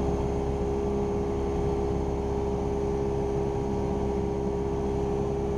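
Cessna 172R Skyhawk's four-cylinder piston engine and propeller droning steadily in flight, heard inside the cockpit, with a constant hum and airflow hiss.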